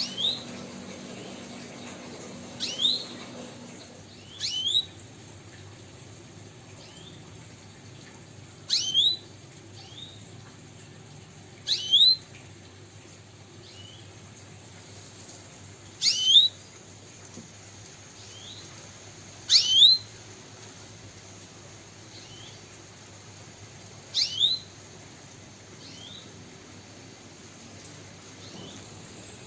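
A caged pet songbird giving single sharp chirps, about eight of them spaced a few seconds apart. Each is a quick high note that sweeps down and then hooks up.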